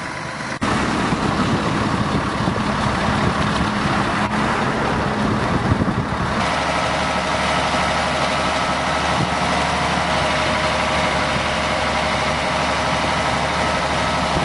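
Doosan tracked excavator's diesel engine running steadily while the machine digs and swings its bucket. It gets louder about half a second in, and a steady higher whine joins about halfway through.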